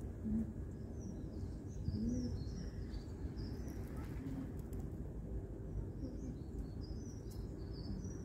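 Small birds chirping outdoors, with many short, high calls in quick clusters all through, over a steady low background hum.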